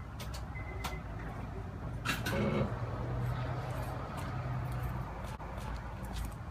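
Honda Civic EP3's swapped K24 inline-four idling quietly through a PLM race header and Tanabe Medallion Touring exhaust, a low steady hum with a few light clicks.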